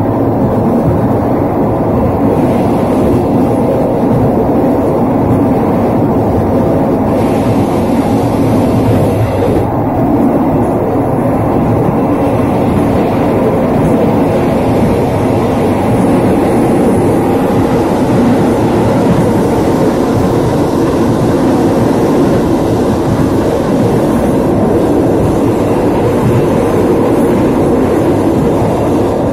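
Passenger train running at speed, heard from the rear of its last carriage: a steady, loud rolling noise of wheels on the rails that carries on unbroken.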